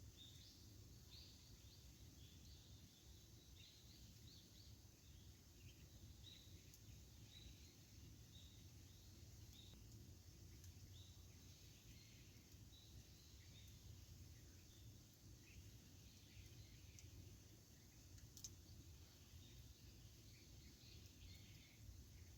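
Faint wood campfire crackling: many small irregular snaps, with one sharper pop about eighteen seconds in, over a low steady rumble.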